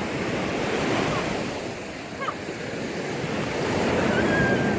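Sea waves washing onto a beach: a steady rush of surf that swells about a second in and again near the end, with some wind on the microphone.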